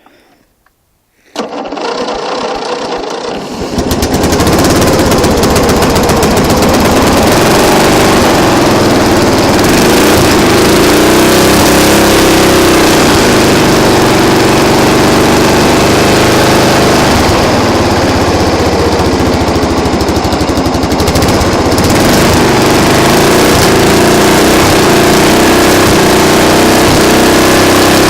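An engine cold-started after sitting for about two weeks: it cranks for about two seconds, catches, and then runs loudly and steadily.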